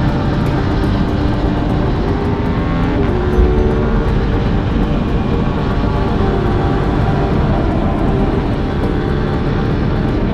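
Aprilia RS 660's parallel-twin engine running steadily under way, its pitch shifting about three seconds in.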